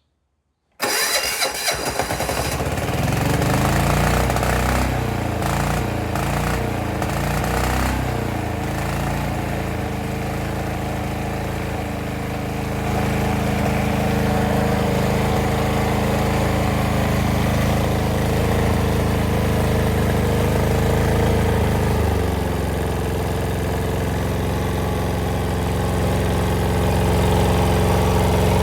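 Yanmar L60 single-cylinder air-cooled diesel engine cranked by its electric starter for about two seconds, then catching and running steadily. About 22 seconds in its note changes and settles to a lower, steadier idle.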